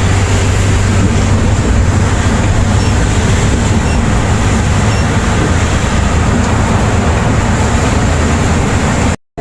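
Volvo B8R coach on the move, heard as a steady low engine hum under an even wash of road noise. The sound cuts off abruptly near the end.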